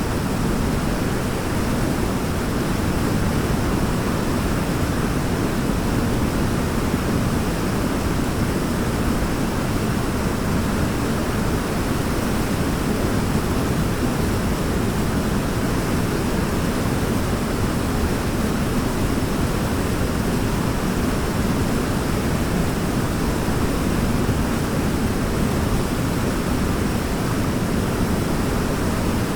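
Waterfall: water falling and rushing in a steady, unbroken wash, loudest in its low rumble.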